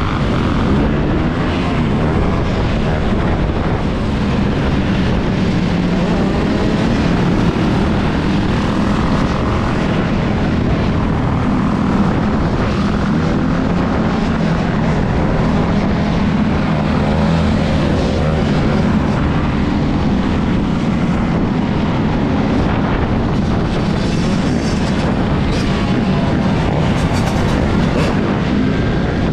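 Steady rush of wind buffeting a bike-mounted action-camera microphone, mixed with riding noise from an electric dirt bike on the move.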